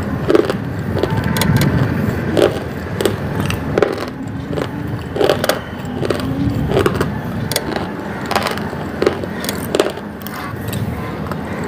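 Close-up chewing of a hard, crunchy mouthful with the mouth nearly closed: a sharp crunch a little more than once a second over a steady low rumble.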